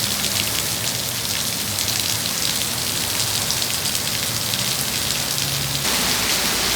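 Heavy rain falling steadily, a dense hiss of drops pattering on surfaces, with a faint steady hum underneath.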